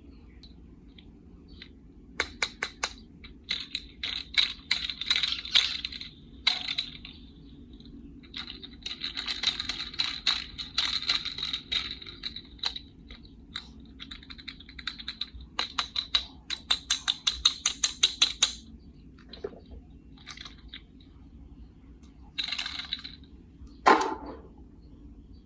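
Small toy cars and a plastic carry case being handled: runs of quick sharp clicks and rattles, at one point about eight clicks a second, with one louder knock near the end.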